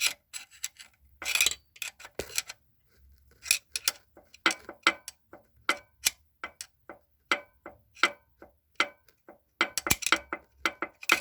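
Irregular sharp metallic clicks and knocks from a connecting rod in the Infiniti FX35's V6 being rocked by hand on its crankshaft journal, the free play behind the engine's knock.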